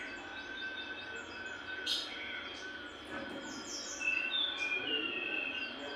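Jongkangan songbird singing continuously: rapid runs of short high chirps mixed with clear whistled phrases.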